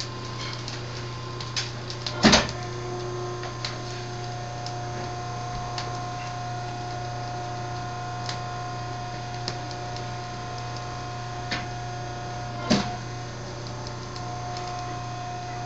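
Kitchen working sounds: a steady machine hum with scattered small clicks and two louder knocks, about two seconds in and near the end.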